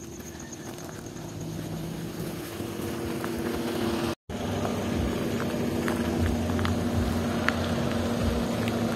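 Kia Sonet compact SUV driving slowly over a grassy field, its engine humming steadily and growing louder as it comes closer. The sound cuts out for a moment a little after four seconds, then the engine carries on close by with a few faint ticks.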